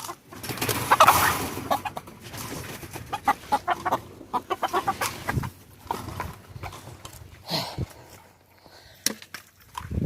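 Game roosters clucking and calling in quick, repeated short bursts, busiest in the first few seconds and thinning out later, with a few sharp clicks near the end. The birds are waiting to be fed.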